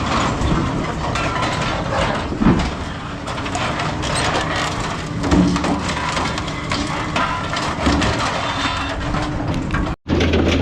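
Heavy scrap-yard machinery working scrap metal: continuous crunching and clanging of metal with sharp knocks and brief metallic squeals. Near the end it cuts off abruptly to a steady low hum.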